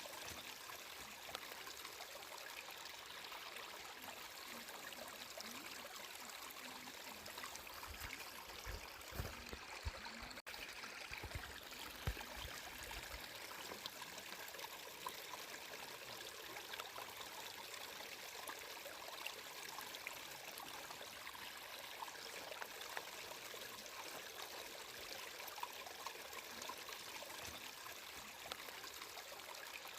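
Flowing water trickling and splashing steadily, like a small stream, with a few low rumbles about a third of the way in.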